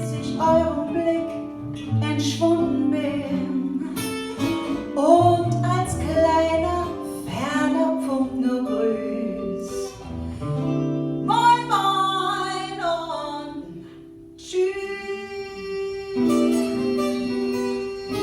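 Acoustic guitar playing a song with a voice singing over it. There is a short lull about fourteen seconds in, then a fresh chord rings out and the guitar carries on.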